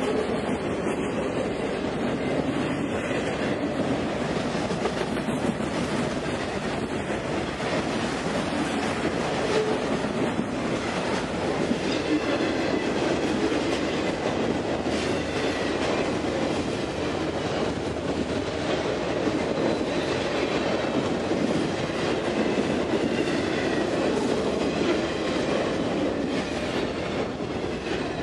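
Freight train of autorack cars rolling past close by: a steady rumble and clatter of steel wheels on the rails, with clickety-clack over the rail joints.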